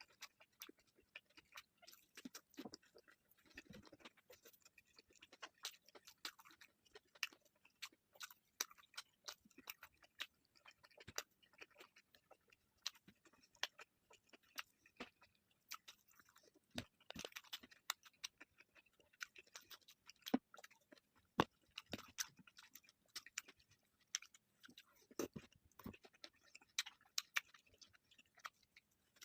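Close-miked chewing and biting of food. Many quick, irregular wet clicks and crunches come one after another.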